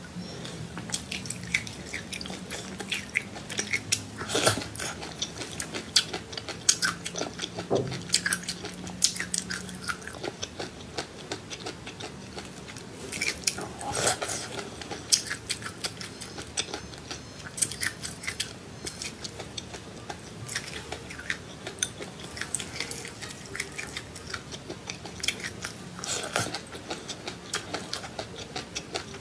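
A person chewing and crunching seeds close to the microphone: a run of sharp, irregular crunches and clicks, with louder bites now and then.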